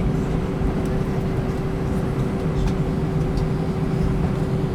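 Cabin noise inside an Airbus A320 taxiing after landing: a steady low rumble from the engines and air conditioning, with a constant hum held throughout.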